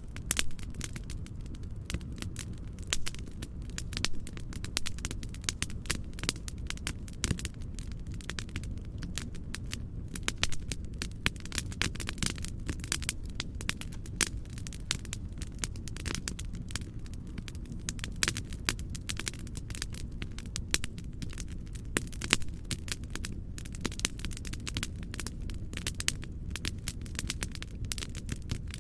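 Fireplace fire crackling, with frequent irregular sharp pops over a steady low rumbling noise.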